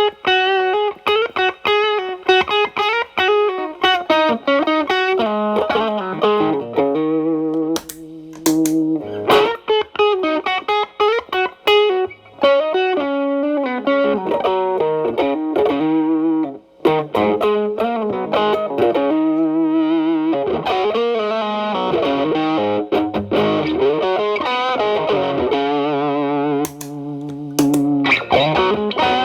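Fender Telecaster played through an Xotic BB-series overdrive pedal into a Marshall Valvestate clean channel: a bluesy improvised run of single-note lines and chords, mildly overdriven. The pedal gain is at maximum with the tone cleaned up.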